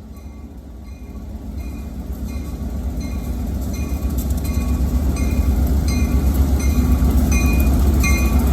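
Railroad bell ringing steadily, a little under twice a second, over the low rumble of an approaching train that grows steadily louder.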